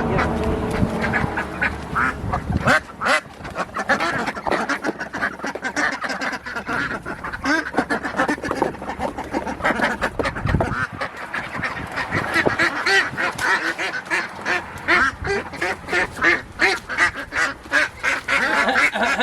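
A flock of domestic ducks quacking, many loud quacks overlapping in quick succession and coming thicker toward the end. Loud quacking like this is the hens' call; drakes give only a quieter, raspy note, which is how the birds are being told apart.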